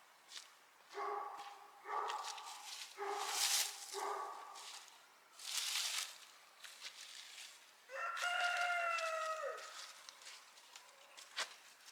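A rooster crowing once, about eight seconds in: one long call that dips slightly at the end. It is preceded by several shorter pitched calls, with two brief bursts of hissing noise between them.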